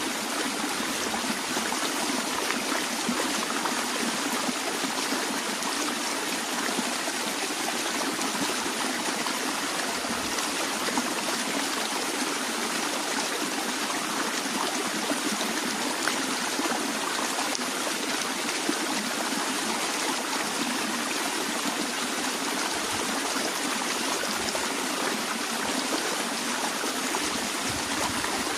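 Stream water flowing steadily over rocks, a continuous rushing with small trickling and splashing detail.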